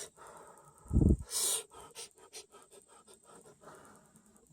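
A person blowing on and slurping a spoonful of hot red bean porridge to taste it: a puff of breath with a low thump about a second in, a short hissing slurp right after, then a few faint clicks.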